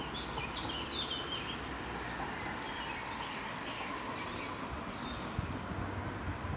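Small songbirds twittering in a fast run of short, high, falling chirps that fade out about five seconds in, over a steady outdoor background hiss.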